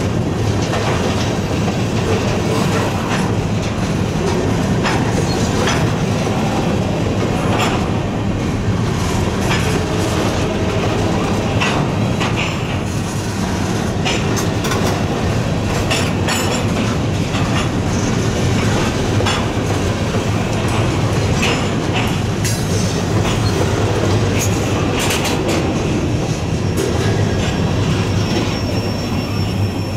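Unit train of covered hopper cars rolling past, its steel wheels clicking and clattering over the rails in an irregular stream of sharp clicks over a steady rumble.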